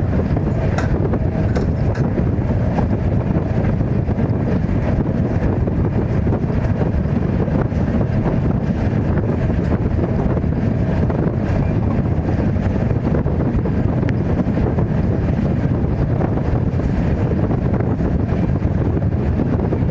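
Indian Railways LHB coach train running at speed: a steady, loud low rumble with wind buffeting the microphone.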